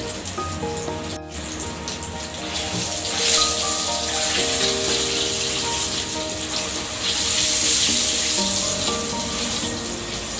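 Tofu pieces coated in sago flour frying in hot oil in a wok, a steady sizzle that grows louder about three seconds in, with background music playing over it.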